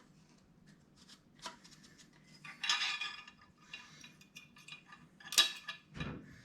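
Metal exhaust parts and hardware clinking and clattering as they are handled and fitted, with scattered light clicks, a burst of clatter about a third of the way in and a sharp clink near the end followed by a dull thud.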